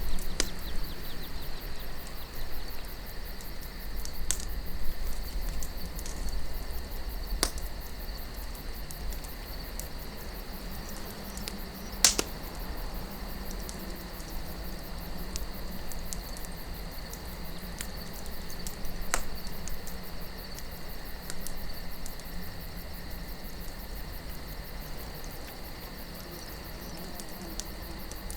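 Campfire crackling, with scattered sharp pops of burning wood, the loudest about twelve seconds in, over a low rumble of wind and a steady high chirring of crickets.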